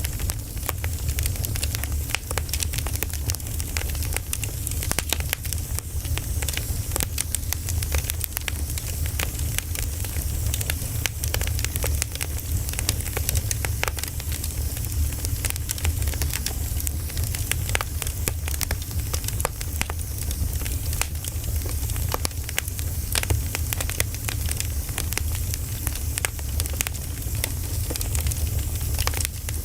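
Wood fire crackling and popping: dense, irregular small snaps over a steady low rumble.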